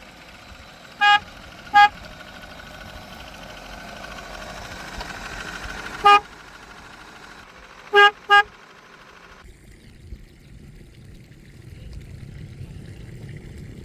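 Vehicle horn tooting five short times: two toots a second apart near the start, one in the middle and a quick double toot later, over steady engine and road noise.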